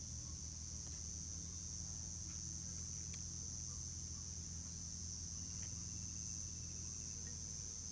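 Steady high-pitched insect chirring, like a cricket chorus, with a low steady hum underneath and a few faint clicks.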